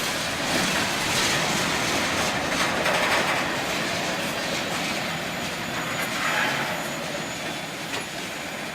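Passing train's rumble and rail noise, steady at first and slowly fading away.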